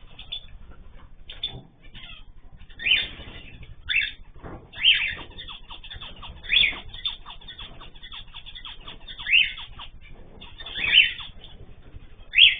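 Cage birds calling and chirping. About eight loud short calls come one to three seconds apart over a steady chatter of fainter chirps.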